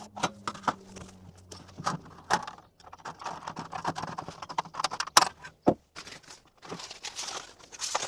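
Thin aluminum trim coil sheet being handled, rattling and crinkling with irregular sharp clicks and knocks.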